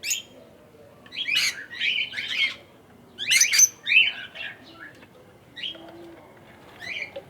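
Small pet parrots chirping and squawking: a series of short, high-pitched calls, roughly a second apart and some in quick pairs.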